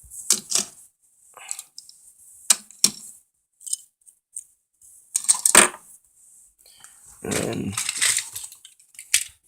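Small toy vehicles clicking and clattering against each other and a hard surface as they are handled, in scattered sharp knocks with a louder clatter about halfway through.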